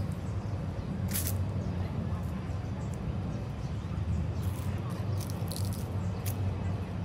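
Outdoor ambience in a tree-lined garden: a steady low rumble with a few brief, faint crackles, most of them in a cluster in the second half.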